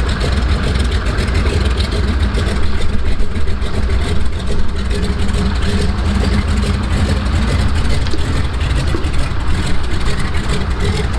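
De Havilland Canada Beaver seaplane's engine running steadily, with a deep, even drone.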